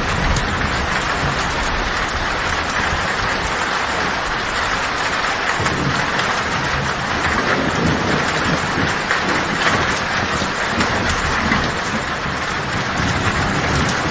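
Heavy rain drumming steadily on a tin metal roof, a dense hiss full of fine drop ticks, with low thunder rumbling underneath that swells and fades.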